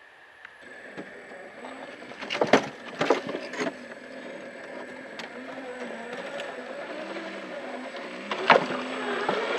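Radio-controlled scale truck's small motor and drivetrain whining as it crawls along, the pitch rising and falling with the throttle, with a few sharp knocks from the truck bumping over the ground, a cluster of them a couple of seconds in and another loud one near the end.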